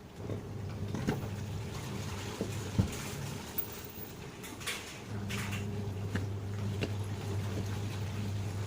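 Electric hum from the Sanken twin-tub washing machine's wash motor, on for about two and a half seconds, then off, then on again from about halfway through, with scattered clicks and knocks of handling.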